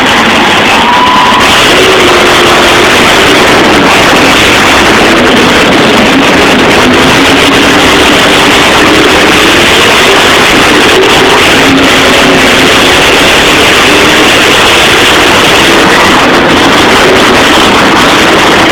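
Monster truck engines running and revving under loud arena music, so loud that the phone's microphone is overloaded throughout.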